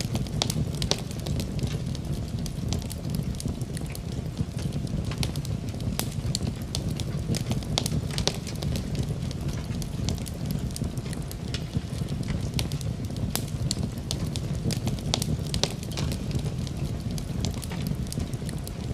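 Fireplace wood fire crackling, with irregular sharp pops over a steady low rumble of the flames.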